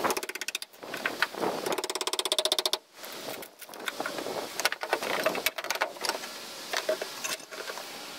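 A power tool rattling in two short bursts of rapid, even strokes, about twenty a second, with scattered knocks and scraping between and after them: work on cutting the old transom out of a fiberglass boat.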